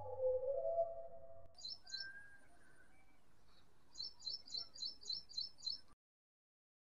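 Background music ends about a second and a half in, giving way to bird chirping. A few chirps come first, then a quick run of about seven near the end, some four a second, before the sound cuts off.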